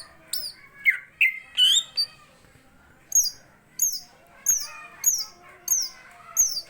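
Cucak ijo (green leafbird) calling in a vigorous, combative display: short, sharp, high calls that fall in pitch, a few lower ones in the first two seconds, then a quick regular series of about one call every 0.6 s.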